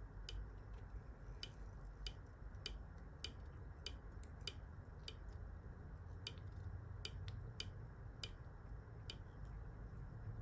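Sharp light clicks, about one every half second with a few longer gaps, from hand work at a fly-tying vise while the stretch body is wound onto the hook, over a low steady hum.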